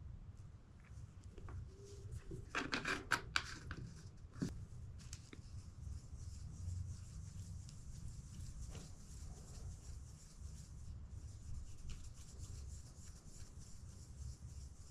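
Light rubbing and scratching of hand work on a wooden piece, with a quick cluster of knocks and clicks about three seconds in and a single knock a second later.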